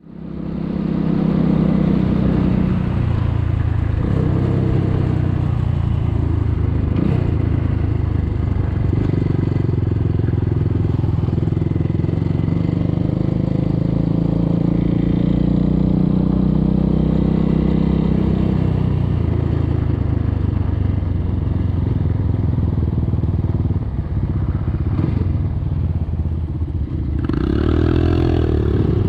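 Enduro motorcycle engine running under way, steady for most of the time, with the revs rising and falling near the end.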